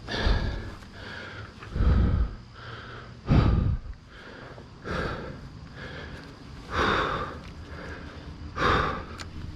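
A person breathing heavily close to the microphone, a breath about every one and a half to two seconds.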